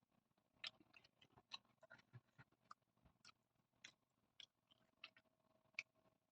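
Quiet, close-miked chewing: soft, irregular wet mouth clicks and smacks, a couple of times a second, from someone eating. A faint steady hum sits underneath.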